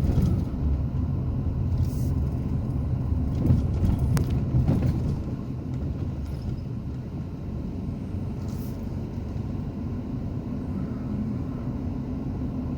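SUV running down the road, heard from inside the cabin: a steady low rumble of engine and tyres, a little louder for the first five seconds before settling, with a few faint clicks.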